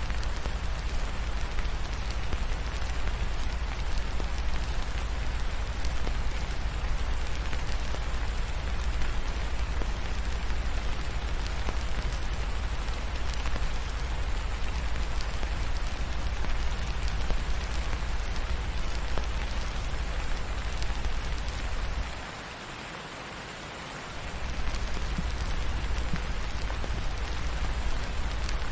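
Steady rain falling, an even hiss over a deep rumble. The rumble drops out for about two seconds near the end, then returns.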